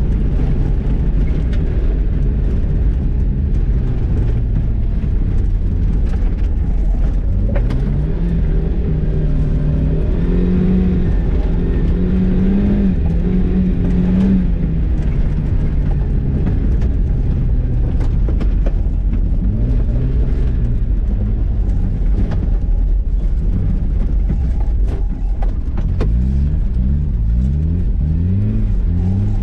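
Mazda MX-5's four-cylinder engine, heard from inside the cabin, revving up and down through gear changes on an autocross run. Near the end it rises and falls quickly several times, about twice a second. Occasional sharp ticks sound over it.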